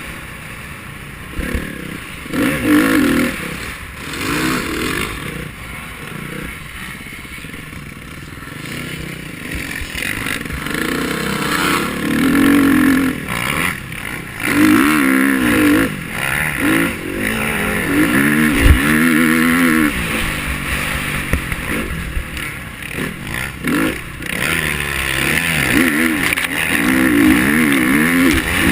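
KTM 350 XC-F single-cylinder four-stroke dirt bike engine being ridden hard, revving up and dropping back again and again as the throttle is opened and shut. There is a sharp knock about two thirds of the way through.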